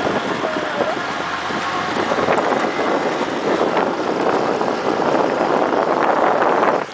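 Loud wind buffeting the microphone on a moving motorcycle, with vehicle noise mixed in. It drops sharply at the very end.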